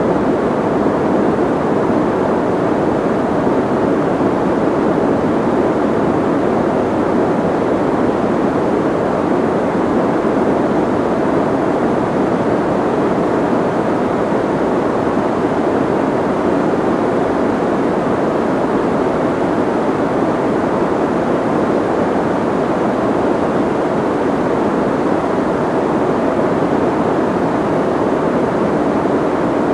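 Steady soft white noise: an even, unbroken hiss that never changes, muffled, with most of its weight in the low middle and little treble.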